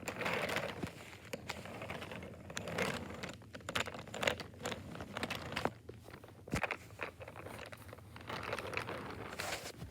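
Small plastic toys being handled and moved about: irregular clicks and taps with short bursts of rustling and scraping.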